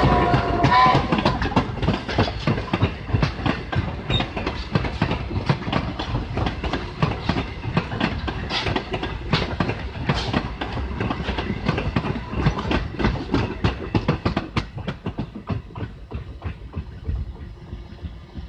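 Steam-hauled passenger train on the Strasburg Rail Road rolling past, its wheels clicking and knocking over the rail joints. A whistle blast cuts off about a second in, and the train sound slowly fades near the end as it moves away.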